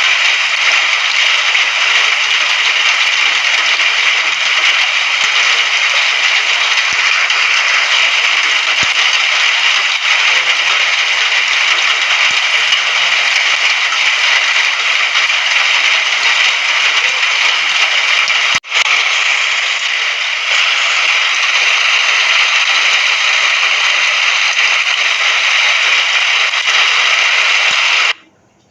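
Steady rain, an even loud hiss with a crackly texture. It dips for an instant about two-thirds of the way through and cuts off suddenly to near silence just before the end.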